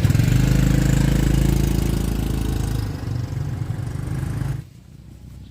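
A small motorbike engine runs close by, loudest at the start and easing off, then cuts off suddenly about four and a half seconds in.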